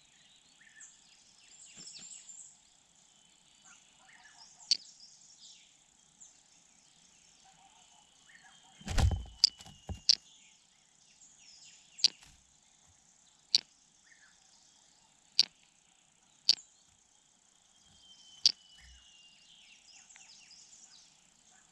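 Night insects chirring steadily and high, with short sharp ticks every second or two and a dull thump about nine seconds in.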